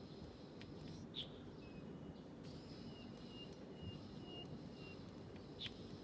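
Faint steady low background noise with small birds chirping: a sharp chirp about a second in, a run of short high notes through the middle, and another chirp near the end.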